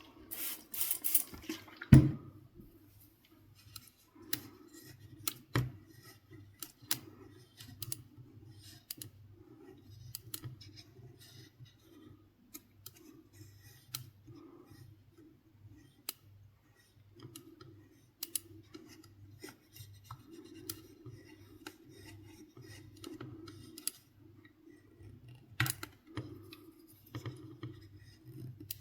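Scattered small clicks, taps and scrapes of hand work on a PlayStation 4's casing and parts, with a short hissing burst at the start that ends in a sharp knock about two seconds in. A faint low hum runs underneath.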